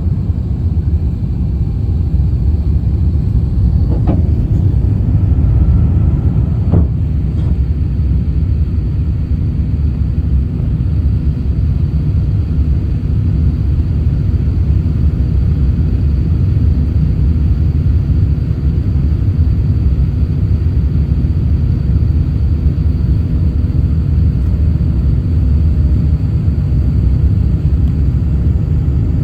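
Low, steady rumble of a jet airliner's engines, with two brief clicks about four and seven seconds in.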